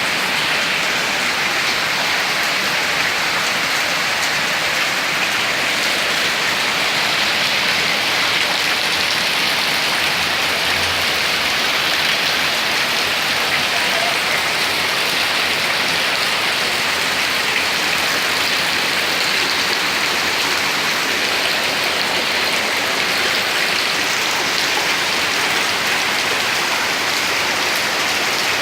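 Rain falling steadily, a continuous even hiss of drops with no let-up.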